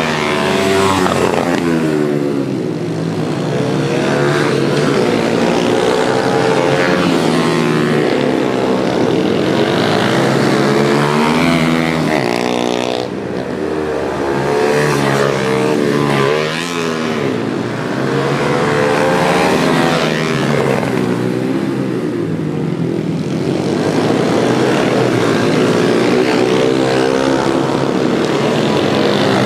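Several pit bikes racing, their small engines revving up and down over and over as the riders shift and brake, the pitches of more than one bike overlapping.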